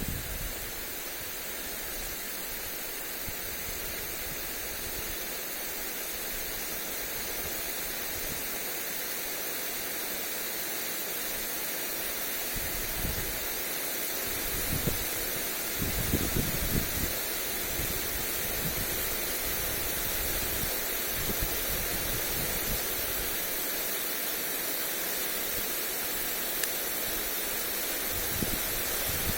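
Lawn sprinkler spraying water onto grass: a steady hiss of spray. Wind gusts buffet the microphone with low rumbles now and then, strongest around the middle.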